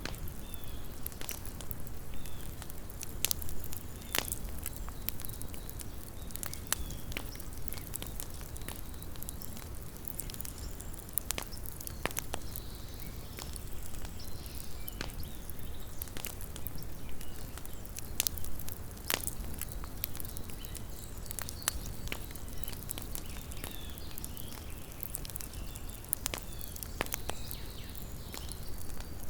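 Small wood campfire crackling, with sharp pops at irregular intervals over a low steady rumble.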